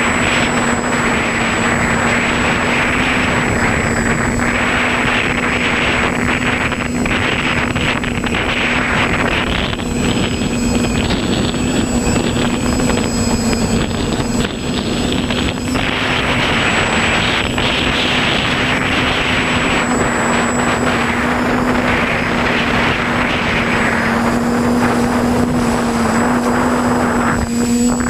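Quadcopter's electric motors and propellers running with a steady hum, heard from the GoPro mounted on the craft, with wind rushing over the microphone that swells and eases.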